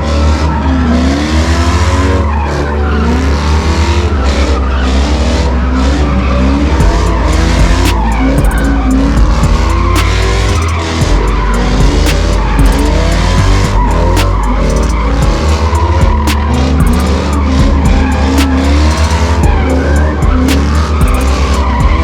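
Cars doing burnouts and donuts: engines revving up and down over and over, with tyres squealing and skidding on the pavement. Heavy bass thumps underneath.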